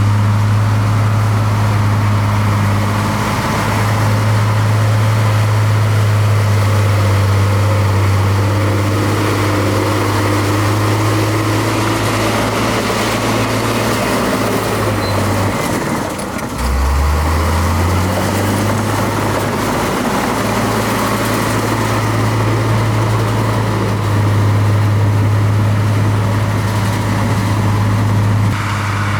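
Heavy construction machine's diesel engine running steadily with a low hum. About halfway through it dips briefly, then its pitch climbs back up as it picks up again.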